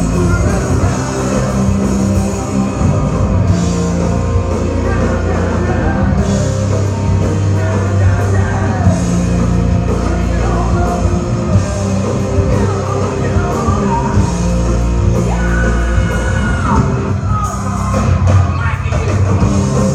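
Loud live rock music: a band playing with electric guitars, bass and drums, and a singer belting the vocal, heard in a large room.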